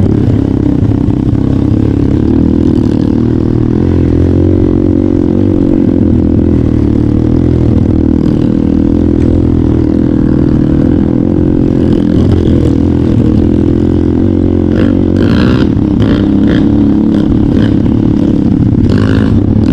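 Trail motorcycle engine running steadily under way, its pitch wavering slightly with the throttle. Several short clattering knocks in the last few seconds.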